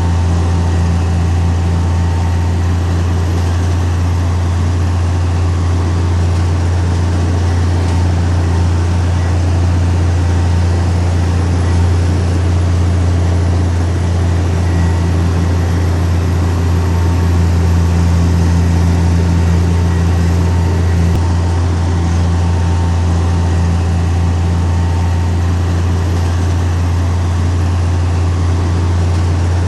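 Heavy diesel engine of earthmoving machinery running steadily, a deep unchanging drone.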